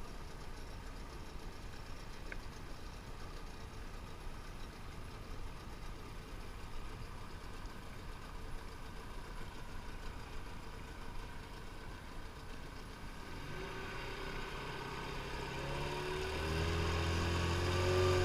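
Outboard boat motor running, low and steady at first, then growing louder over the last five seconds or so as a clear engine hum comes through.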